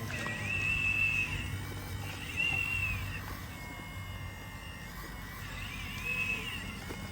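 High-pitched whine of a remote-control construction machine's electric motor or hydraulic pump, rising, holding and dropping away in several spells of about a second as the controls are worked.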